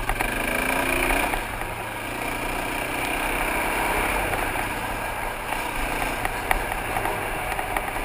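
Single-cylinder dual-sport motorcycle engine running under way, heard through a helmet camera with wind noise over the microphone. The engine note drops about a second and a half in, and scattered short ticks come through.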